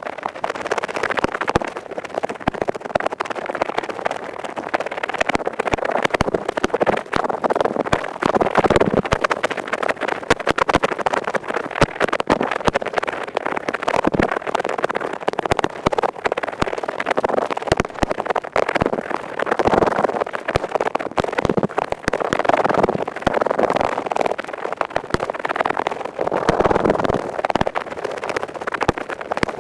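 An earpick scraping rapidly inside an ear, heard very close: a dense run of fast, dry scratches that swell and ease off in waves.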